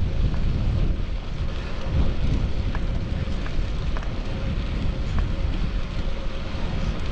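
Wind buffeting an action camera's microphone on a moving bicycle: a steady, heavy low rumble, with a few faint ticks.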